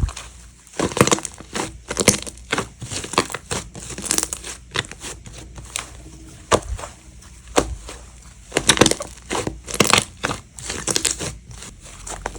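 Slime being squeezed and pressed by hand, giving irregular crackling and popping sounds.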